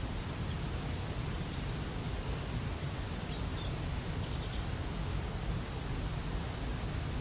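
Steady rush of a waterfall, heaviest in the low end, with a few faint, short bird chirps about one, three and a half, and four and a half seconds in.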